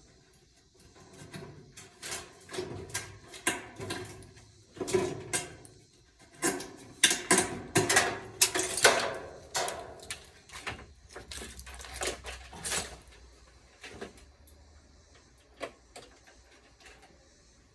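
Irregular clanks, knocks and clicks of metal parts being handled and worked on while a washing machine is taken apart for scrap. They come thickest in the middle and thin out toward the end.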